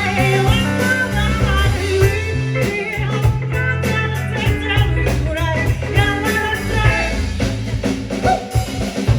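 A band playing a song: a singer over a drum kit, a bass line and guitar.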